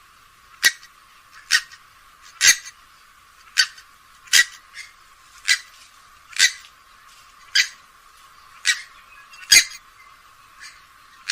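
Grey-headed swamphen calling: a steady series of short, sharp calls repeated about once a second, thin-sounding with no bass.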